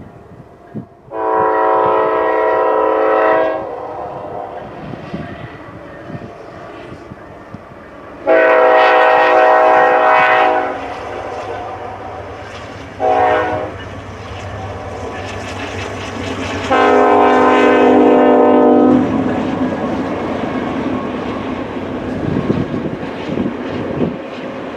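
Diesel locomotive horn sounding the long-long-short-long grade-crossing signal, followed by the steady rumble of the passing train.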